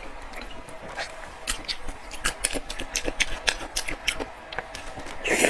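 Close-miked eating sounds: chewing with many small, sharp, wet mouth clicks at an irregular pace, and a louder burst just before the end.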